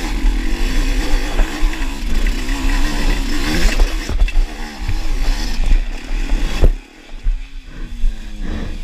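Dirt bike engine running under varying throttle, its pitch rising and falling, with heavy low rumble on the microphone. About seven seconds in it drops briefly, then settles to a lower, steadier note.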